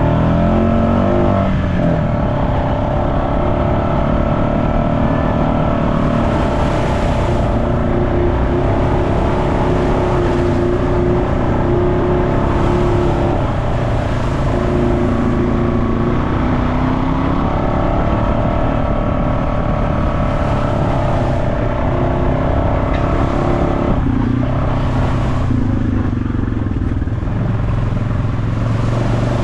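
Off-road vehicle engine running through the trail, holding a fairly steady speed with small rises and falls in pitch over a heavy rumble.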